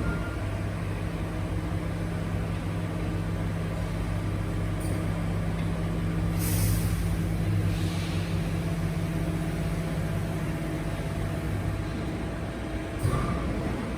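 Garbage truck running with a steady low hum, with a short sharp hiss of released air about six and a half seconds in and a weaker one shortly after.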